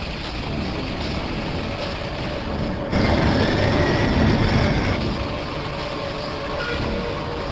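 Steady vehicle noise, a dense rumble and hiss without speech, that jumps suddenly louder about three seconds in.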